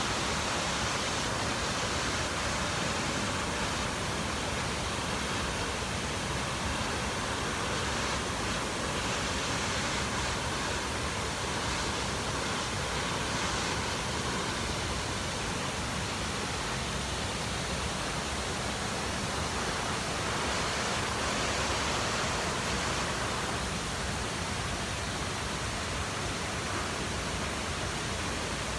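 Fukiware Falls, a broad waterfall on the Katashina River, rushing steadily: a dense, unbroken roar of falling water.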